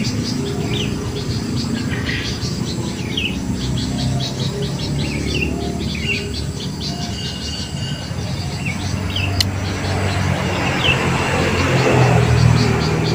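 Birds chirping: short high falling chirps repeating about once a second, with a faster ticking trill above them, over a low steady rumble that grows louder near the end.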